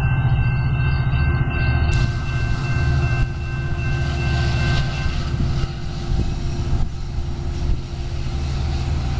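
Commuter train running past: a steady heavy rumble with a thin high whine over it and a few faint clicks.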